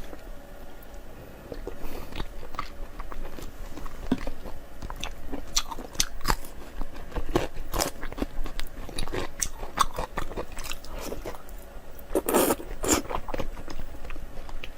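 Close-up mouth sounds of a person biting and chewing meat: a steady run of short wet clicks and smacks, with a busier stretch of chewing near the end.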